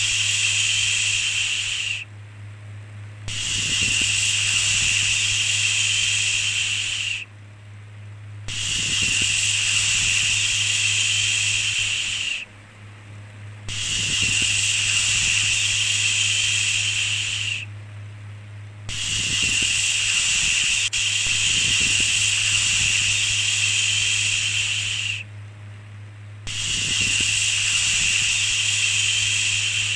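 A long, repeated "shhh" shushing sound, each hiss lasting about four to six seconds, with short breaks between, six times over. A steady low hum runs underneath.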